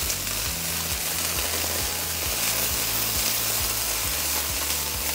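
Thai baby asparagus sizzling steadily in hot oil in a wok over a gas flame, hissing and steaming from a few drops of water splashed in.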